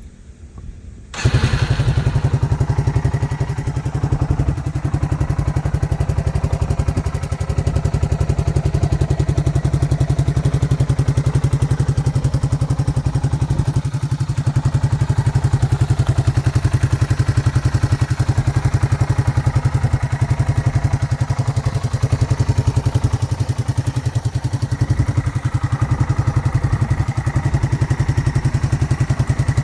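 2003 Yamaha TW225E's single-cylinder four-stroke engine catching about a second in, then idling steadily with an even, rapid exhaust pulse through a Supertrapp aftermarket muffler.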